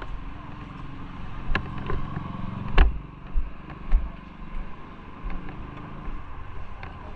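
Motorcycle engine running, its pitch rising briefly about two seconds in, with several sharp knocks in the middle.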